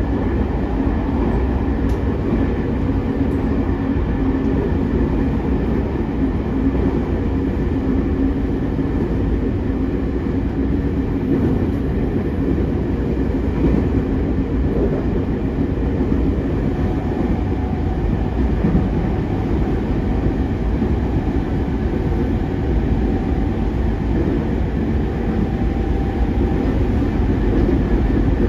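Cabin running noise of a JR East E231-3000 series electric commuter train at steady speed: an even rumble of wheels on rail with a low steady hum.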